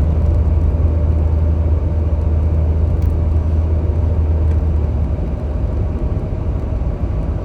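Steady low rumble of road and engine noise inside a moving car's cabin, easing a little about five seconds in.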